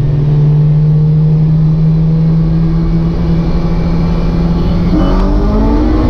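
Kraftwerks-supercharged 2005 Honda S2000's four-cylinder engine, heard from inside the cabin, holding a steady drone while cruising in second gear. About five seconds in it goes to full throttle, and the pitch climbs as the roll race starts.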